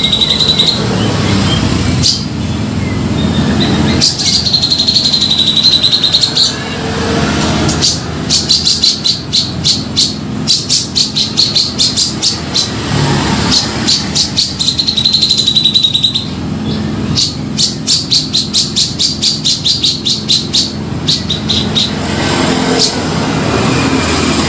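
Cucak jenggot (grey-cheeked bulbul) singing loudly. Wavering whistled phrases alternate with long, fast runs of repeated notes at about five a second, over a steady low rumble.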